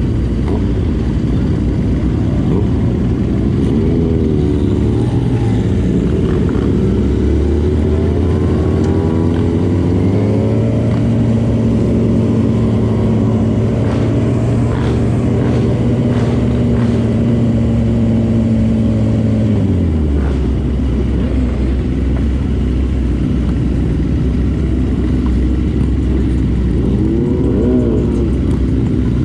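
Motorcycle engine running under way. Its pitch climbs as it speeds up about a quarter of the way in, holds steady at cruise, then drops off about two-thirds of the way through as the throttle closes.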